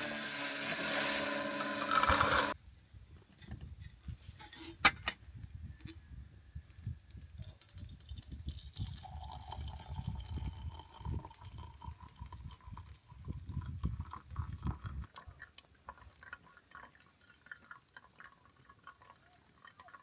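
Liquid being poured into a container, the pitch rising slowly as it fills, among faint irregular knocks and rumbles. A loud hissing noise cuts off suddenly about two and a half seconds in.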